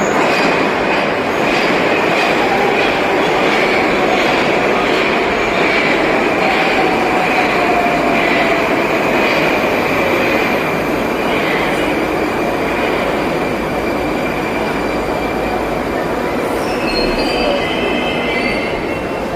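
Moscow metro train running along the platform, its wheels clicking over the rail joints at a steady rhythm. A whine falls in pitch partway through, and short high squeals come near the end, typical of the wheels or brakes as the train slows.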